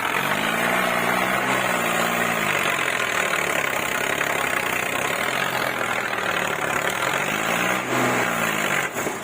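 Tractor diesel engine running, revved up and let back down twice: once near the start and again near the end, over a steady hiss.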